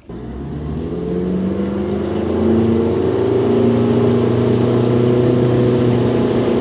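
Boat's outboard motor under way, pitch rising over the first couple of seconds as the boat picks up speed, then running steadily. The motor is new and being run in, so it is held at moderate revs.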